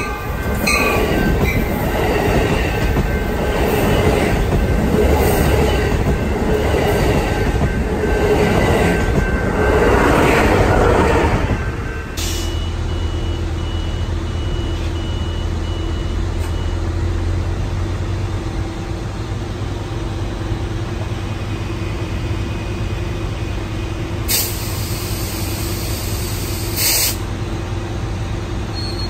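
A train passing close by, its wheels rumbling over the rails with a regular clatter. About twelve seconds in the sound changes abruptly to a steady low engine hum with a fixed tone, broken twice near the end by short bursts of hiss.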